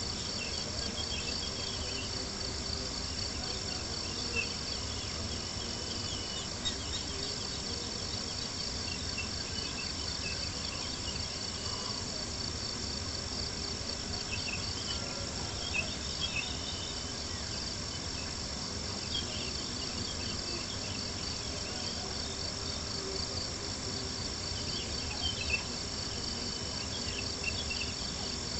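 Crickets chirping in a steady, fast-pulsing chorus over a campfire's crackle, with a few louder pops.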